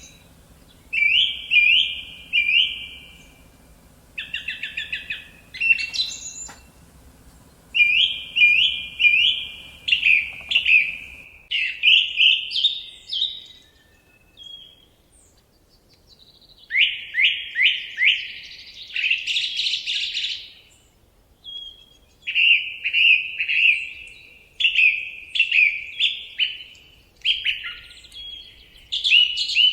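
Forest songbird singing in short loud phrases of three to five quick, downward-sweeping notes, repeated every second or two, with fainter high calls of other birds. A faint low background hum stops about eleven seconds in.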